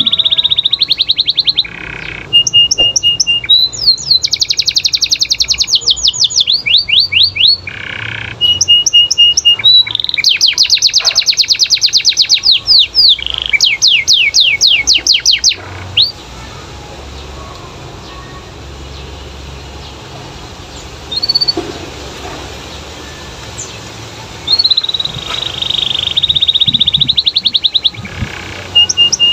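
Domestic canary singing in a vigorous stream of rapid trills and runs of quickly repeated high notes. It falls quiet about halfway through, gives a single short call, and starts trilling again a few seconds before the end.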